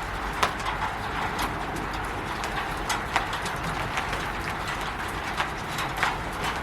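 Rain falling on a roof: a steady hiss with irregular, sharper taps of single heavier drops and drips landing every fraction of a second to a second.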